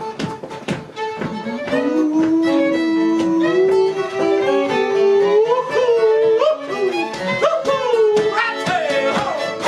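Fiddle playing an instrumental break between sung verses, with long held notes that slide up and down, over strummed acoustic guitar.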